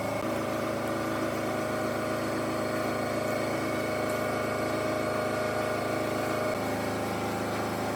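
A machine's motor running steadily with an even hum; its tone shifts slightly about six and a half seconds in.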